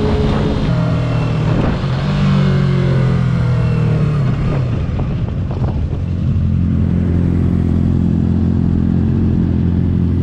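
Motorcycle engine running on the move, its pitch easing down over the first few seconds as it slows, then settling into a steady low drone from about six seconds in.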